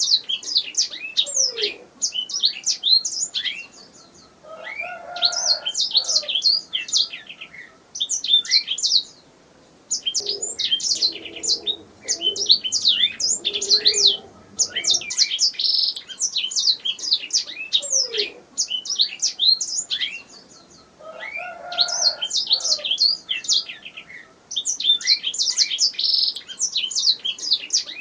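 Domestic canary singing: long phrases of rapid, high chirps and trills, broken by short pauses of about a second.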